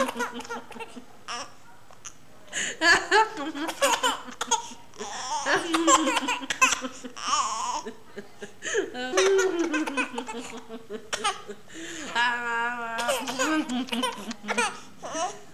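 Baby girl laughing in repeated bursts, with a wavering, trilling laugh sound a little past the middle.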